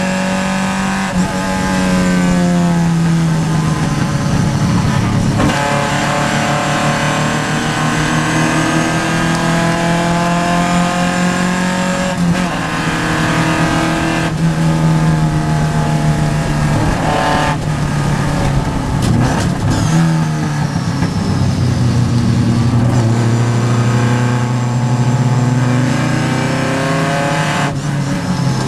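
Vintage Triumph race car's engine heard from inside the cockpit, its note repeatedly climbing under acceleration and dropping sharply at each gear change or lift through the corners.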